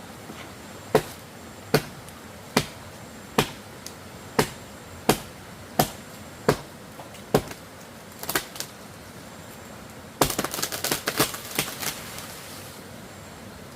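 A series of sharp knocks, one about every 0.8 seconds, then a quick flurry of rapid knocks about ten seconds in.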